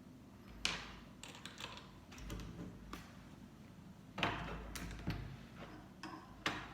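Plastic Lego pieces clicking and tapping as they are handled and pressed together, an uneven scatter of short, sharp clicks.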